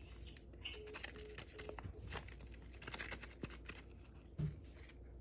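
Faint scattered taps, clicks and light rustling, as of small objects and packaging being handled.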